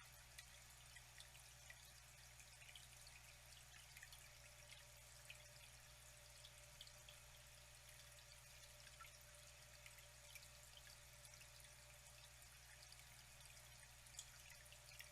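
Faint flowing water: a steady trickle with many small drips and splashes scattered through it, over a low steady hum.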